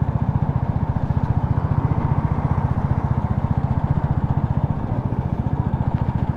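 Motorcycle engine running steadily with an even, rapid exhaust beat.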